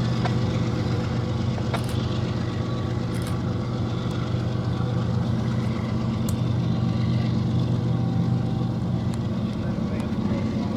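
Diesel locomotive engine running steadily: a constant low drone with no change in pitch.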